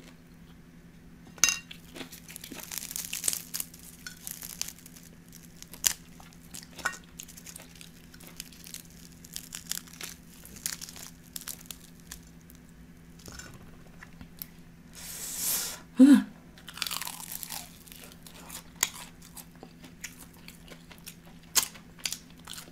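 Close-miked eating of crispy oven-fried chicken wings: the wing is torn apart by hand and chewed, giving irregular crunches, clicks and wet chewing noises. A faint steady low hum runs underneath.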